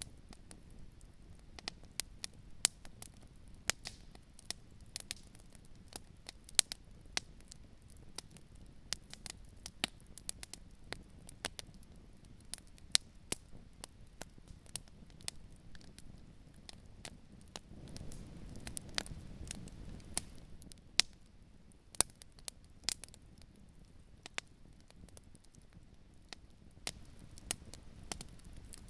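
Campfire crackling: irregular sharp pops and snaps from burning wood, several a second, over a low rushing background that swells for a couple of seconds about two-thirds of the way through.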